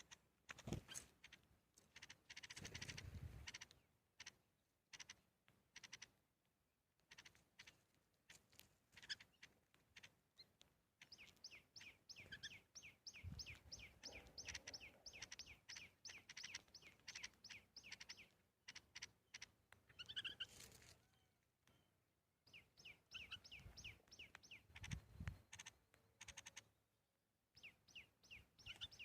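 Small birds chirping faintly: fast runs of short, high chirps, with a few soft low thumps in between.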